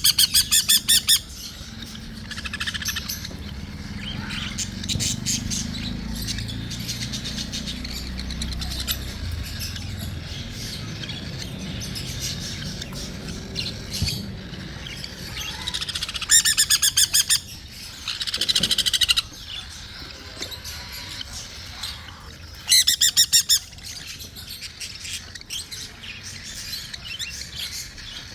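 Cockatiel giving loud, rapid rasping begging calls while being hand-fed, in about four bursts of roughly a second each, with fainter chirps in between.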